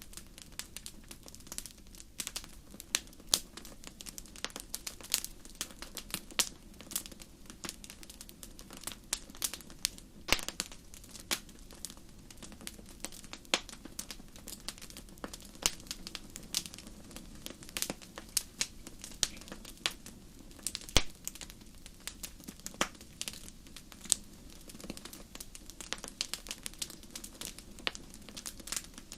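Wood fire burning in a fireplace, crackling and popping in many sharp, irregular snaps over a low, steady rumble of the flames.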